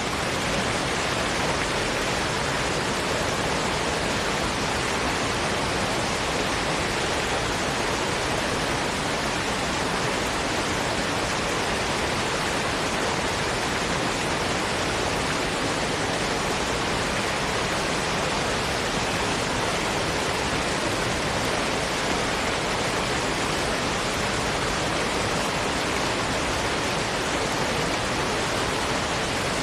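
Steady green noise: an even, unchanging hiss with most of its weight in the middle frequencies.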